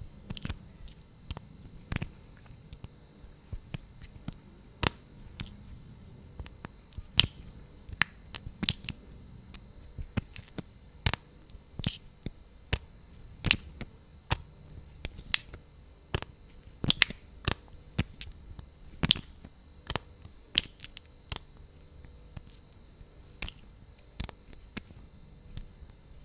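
Wet lip smacks and mouth clicks through thick lip gloss, close to the microphone: irregular sharp pops, about one or two a second.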